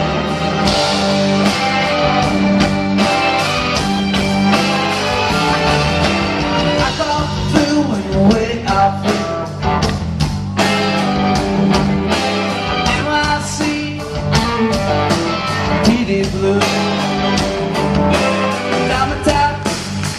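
Live rock band playing electric guitars, bass and drums with a voice singing.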